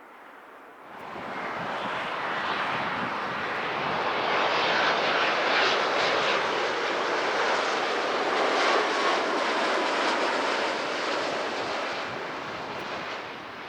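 Airliner's jet engines passing close by: the rushing engine noise rises about a second in, peaks midway with a faint falling whine, then fades away.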